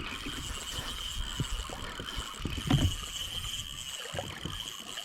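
Fishing reel drag whining steadily as a fast-running fish strips line, over water sloshing against a kayak hull, with a soft knock a little before the three-second mark.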